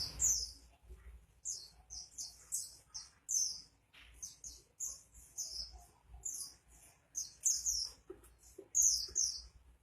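White-eye (pleci) singing vigorously: a rapid run of short, high twittering phrases, one after another with brief gaps.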